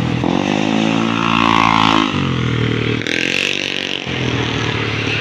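Road vehicle engines passing close by. One engine note rises under a second in, holds, then drops away after about two seconds, and a second shorter engine note follows about three seconds in.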